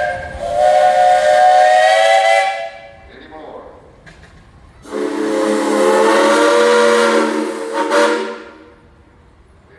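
Steam whistle on a 1919 Advance-Rumely steam traction engine blowing two long blasts. The first ends a couple of seconds in; the second, lower in pitch, follows after a short pause. Each blast sounds several steady tones at once.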